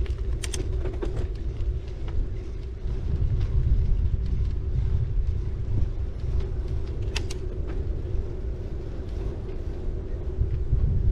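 Ride noise from a bicycle: a steady low rumble of wind on the camera microphone and tyres rolling over the path, with a faint steady hum and two sharp clicks, one about half a second in and one about seven seconds in.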